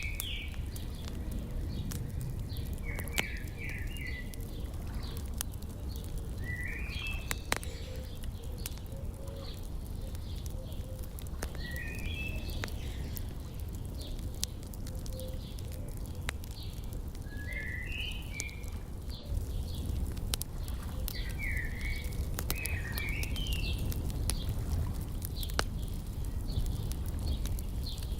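Wood fire crackling with scattered sharp pops, over a low steady rumble, while small birds chirp in short bursts every few seconds.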